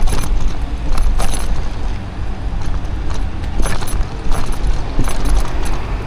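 E-bike moving along a rough street, its frame and mounted gear rattling and knocking in irregular clusters over a steady rumble of wind on the microphone.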